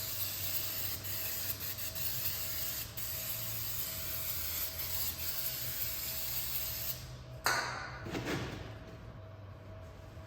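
Steady hiss of spraying, cutting off about seven seconds in, then a short, sharper spray burst that trails off.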